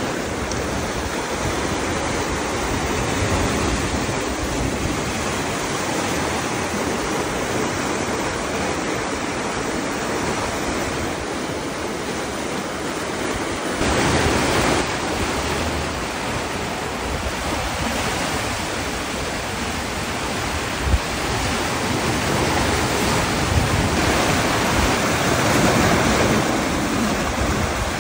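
Steady rush of sea water and wind around a sailboat under way, swelling louder about halfway through and again near the end.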